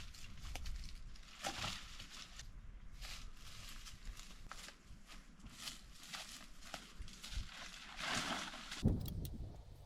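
Irregular light taps, clicks and rustles, with a denser scraping stretch and a sharper knock near the end.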